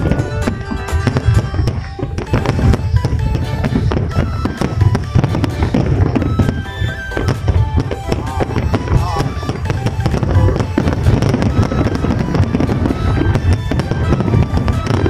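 Fireworks going off in many bangs in quick succession, with music playing throughout.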